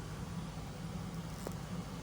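Steady low rumble of a running machine, with a faint tick about one and a half seconds in.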